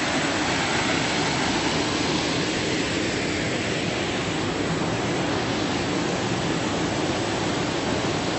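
Steady rushing of fast-flowing water: the runoff stream coming down from a large waterfall.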